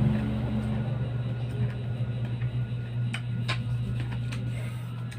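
A steady low hum with a few faint short clicks over it.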